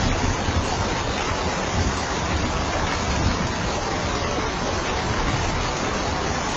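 Rain falling steadily on a roof: an even hiss with a low rumble underneath, unchanging throughout.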